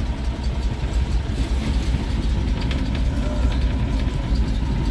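REO-built US6 truck's Hercules JXD straight-six engine idling steadily, running on a freshly rebuilt Carter 565-S carburetor.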